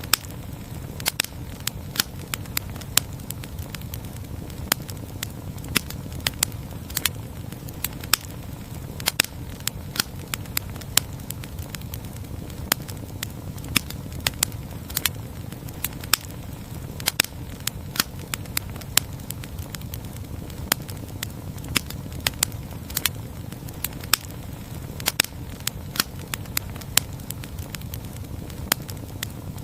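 Campfire burning, crackling with irregular sharp pops over a steady low rush of flame.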